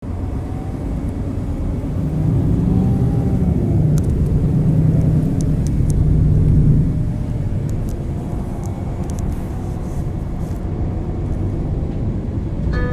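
MAN NL 323 low-floor city bus's six-cylinder diesel running under way through its ZF EcoLife automatic gearbox. The engine pulls harder from about two seconds in to about seven seconds in, then eases back to a steadier, lighter hum. A stop-announcement chime starts right at the end.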